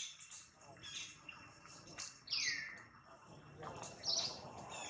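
Wild birds chirping in short, high calls, with one longer call about two seconds in that falls steeply in pitch.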